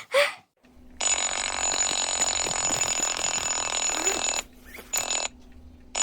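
Electronic ringing tone with steady high tones, sounding for about three and a half seconds from a second in, breaking off, then a short burst and a third ring starting near the end.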